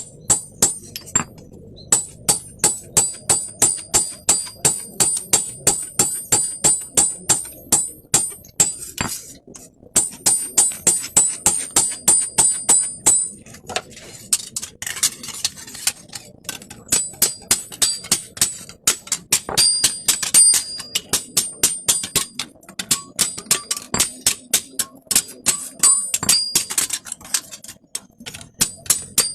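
Blacksmith's hammer striking steel in a steady run of about three blows a second, each blow ringing with a high metallic tone, broken by a few short pauses. It is typical of cutting metal by hammering.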